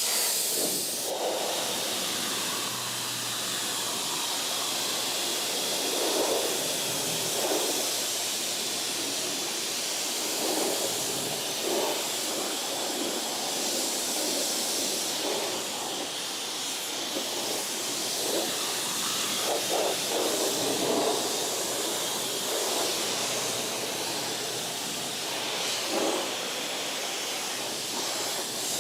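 Water spraying onto a car during washing: a steady hiss with brief louder swells every few seconds.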